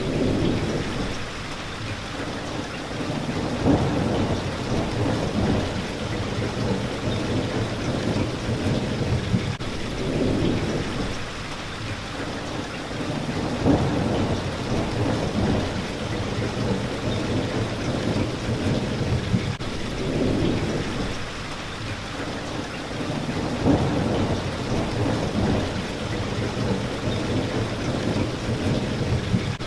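Steady rain hitting a window, with rolling thunder rumbles that swell and fade about every ten seconds.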